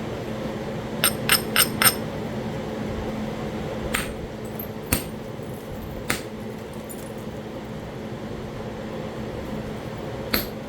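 Sharp, ringing stone-on-stone clicks from flintknapping Talahata quartzite: a quick run of four taps about a second in, then single knocks spaced a second or more apart.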